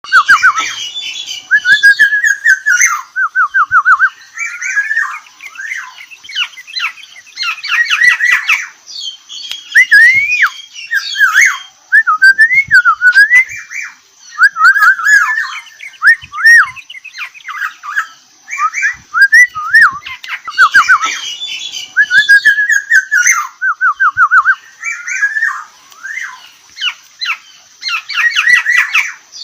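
Black-naped oriole singing: loud, fluty whistles and swooping glides mixed with fast runs of closely repeated notes, with higher scratchy chattering between phrases. The same phrase returns at intervals.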